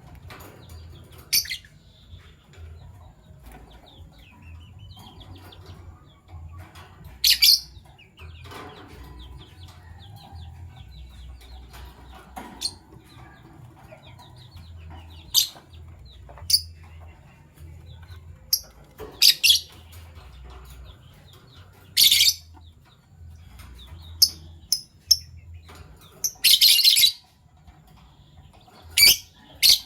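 Fischer's lovebirds giving short, shrill chirps at irregular intervals every few seconds, with a longer run of chirping near the end, over a faint steady low hum.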